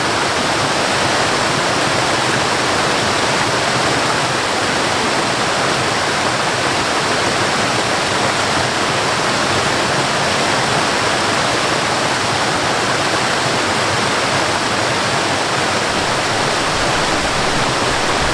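Waterfall: white water rushing in a steady, even roar.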